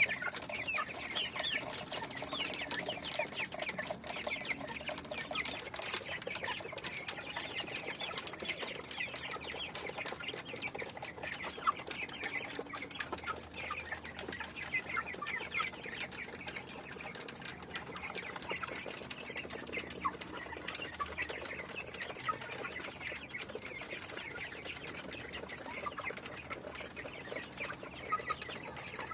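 A flock of chickens calling and clucking, many short calls overlapping continuously.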